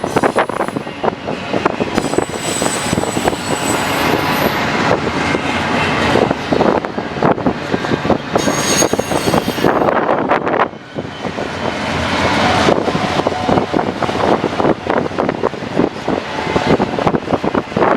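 A train passing, heavily buffeted by wind on the camera microphone, with thin high-pitched tones twice over the passing.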